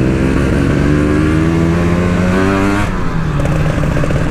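Motorcycle engine running while riding, its pitch rising steadily as it accelerates, then dropping about three seconds in as the throttle eases or it shifts gear.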